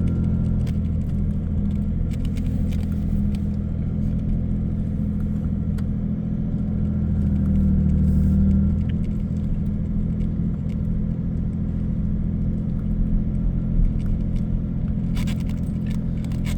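1985 Jaguar XJS engine running steadily at low speed in reverse, heard from inside the cabin. It swells briefly about eight seconds in, and a few clicks come near the end.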